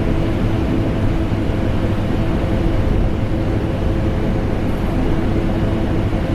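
Vacuum cleaner and air conditioner running together as one steady drone, a dense hiss over a low rumble with several constant humming tones, unchanging throughout.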